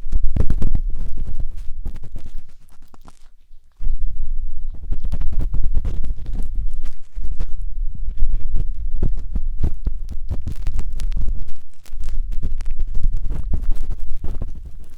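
Close, dense scratching and rubbing of a matchstick inside the silicone ear of a 3Dio binaural microphone, each stroke rumbling and crackling right at the mic. It pauses to a faint rustle about two seconds in, then resumes and keeps going with brief let-ups.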